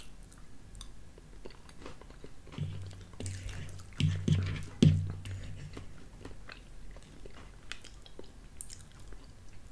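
A person chewing a soft, creamy chicken pot pie filling, with a spoon clicking and scraping against a ceramic bowl in scattered light taps.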